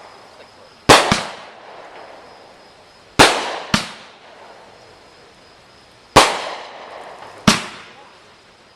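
A 200-gram consumer repeater firework firing shots: six sharp bangs, mostly in pairs, about every three seconds, each trailing off as it fades.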